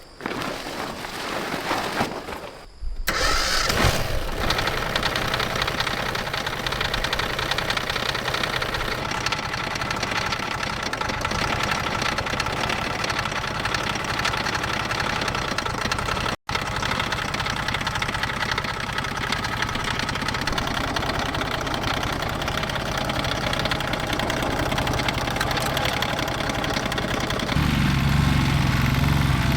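Tractor engine turning over and catching about three seconds in, then running steadily; near the end its low rumble grows heavier.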